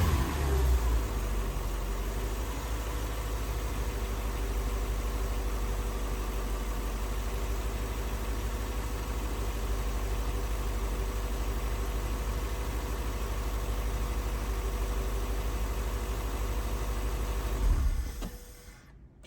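2003 Lexus SC430's 4.3-litre V8 idling steadily after a rev dies away at the start, until the engine sound cuts off near the end.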